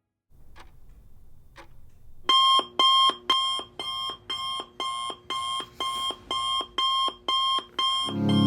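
Electronic alarm clock beeping in a fast, even pattern, about two or three beeps a second, starting a couple of seconds in. Two faint ticks come before it.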